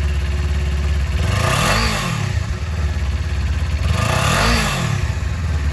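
2018 Kawasaki Ninja 400's parallel-twin engine idling, blipped twice, about two seconds in and again near four and a half seconds, each rev rising and dropping back to idle.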